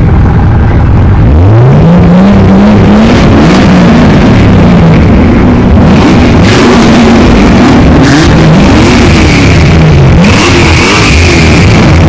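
Car engine idling, then revved repeatedly from about a second in, its pitch rising and falling with each blip of the throttle. Loud throughout.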